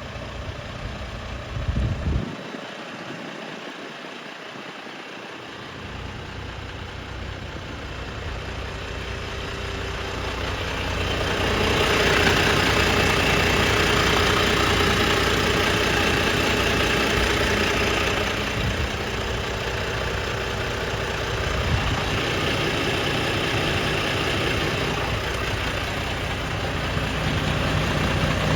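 Volvo FL280 truck's diesel engine idling steadily, with a couple of brief knocks about two seconds in; it grows louder and brighter around the middle.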